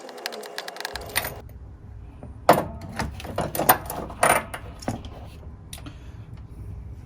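Metal hand tools clinking and clicking against the engine while the ignition coil and spark plug are taken out: a quick run of clicks at first, then a few sharp clinks. A low steady hum sets in about a second in.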